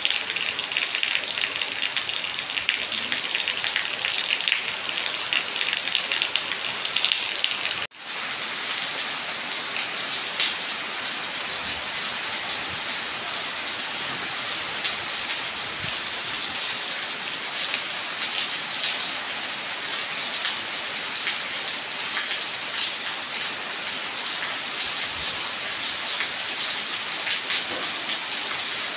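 Steady rain falling on stone steps and puddled ground, a dense patter of drops. About eight seconds in it cuts out for an instant, then resumes a little softer and more even.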